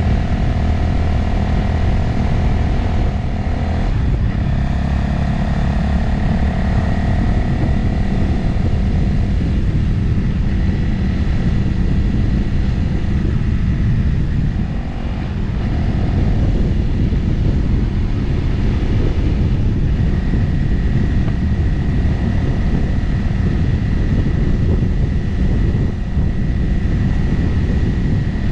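Motorcycle engine running steadily while riding, with wind rushing over the microphone. The engine note steps in pitch about four seconds in, and the sound dips briefly around halfway.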